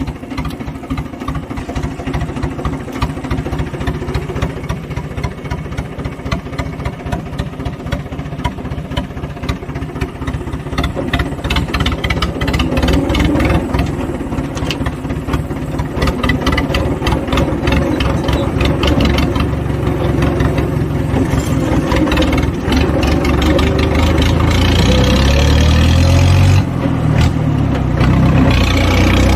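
Mahindra 575 DI tractor's four-cylinder diesel engine running with a fast, low exhaust beat through an aftermarket Holland silencer, growing louder through the second half and loudest near the end as it works harder.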